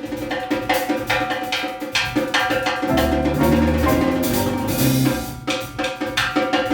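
Live Latin jazz band playing a busy Brazilian groove: drum kit and hand percussion over electric bass and piano. A run of low, held notes steps through the middle.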